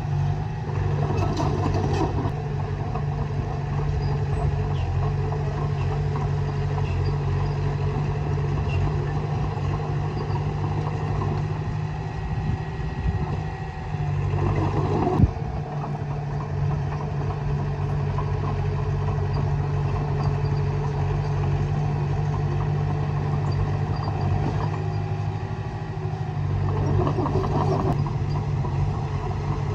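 Diesel engine of a Komatsu D20A crawler bulldozer running steadily while it works the soil. There are louder stretches of clanking and scraping about a second in, near the middle and near the end, with one sharp knock near the middle.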